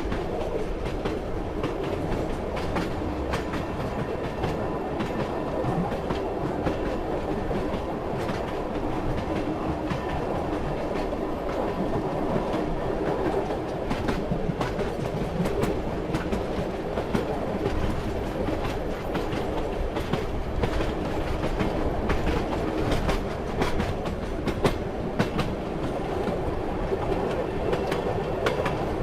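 Moving train: a steady rumble of the rolling carriage with the clickety-clack of wheels over rail joints, in scattered sharp knocks that come more thickly in the second half.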